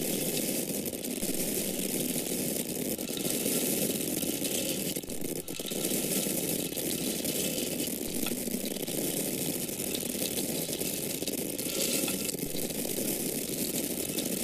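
Dry grains (corn kernels) pouring in a steady stream, a continuous dense patter of many small kernels landing.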